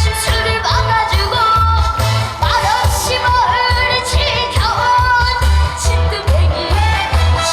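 A male singer singing a Korean trot song live over a backing track with a steady, pulsing bass beat.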